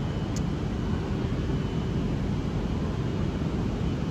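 Steady low rumble of railway station background noise, with a brief faint high chirp about half a second in.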